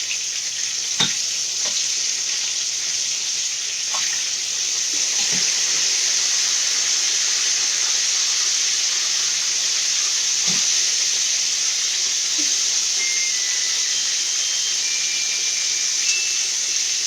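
Food sizzling steadily as it fries in hot oil in a pan, with a few light knocks. Short faint high tones sound in the last few seconds.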